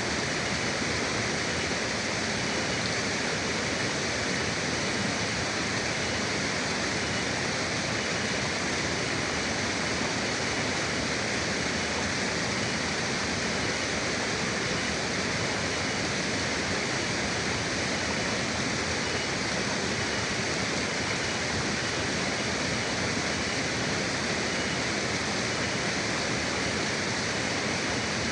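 Forest river water flowing steadily: an even, unbroken rush of running water, with a faint steady high tone beneath it.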